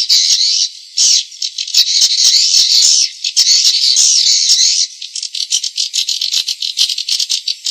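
Swiftlet lure recording, the calls used to draw swiftlets into a nesting house: dense, high-pitched twittering chirps mixed with sharp clicks. The twittering breaks off briefly about a second in, returns, and thins to scattered clicks for the last few seconds.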